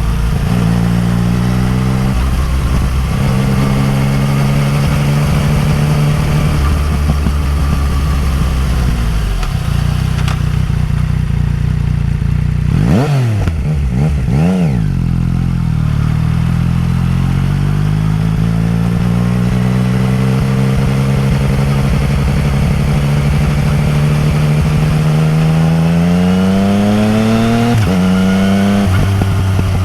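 Yamaha MT-09 Tracer's three-cylinder engine running through an Akrapovic exhaust while riding, its pitch stepping with gear changes. About halfway through there are two quick swoops of pitch up and down, then the engine note climbs steadily for several seconds before dropping sharply at a shift near the end.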